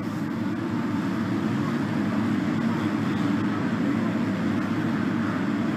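A pack of MX2 motocross bikes racing, their engines running hard together in a steady, dense blend of several engine notes.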